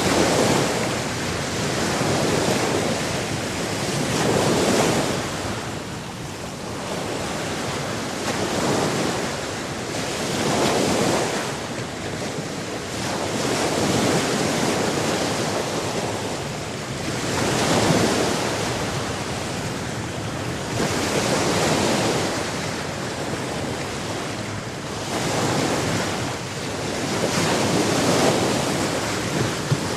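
Sea waves surging in and washing back, the rushing noise swelling and fading every few seconds.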